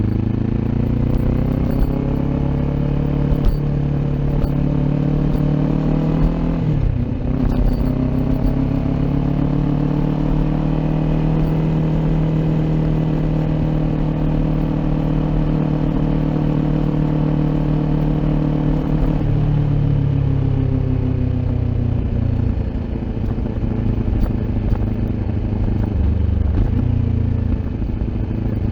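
Kawasaki Ninja 400's parallel-twin engine, fitted with an Akrapovic aftermarket exhaust, running under way. Its pitch climbs over the first few seconds, drops sharply at a gear change about seven seconds in, then builds and holds. It eases off around twenty seconds and picks up again near the end.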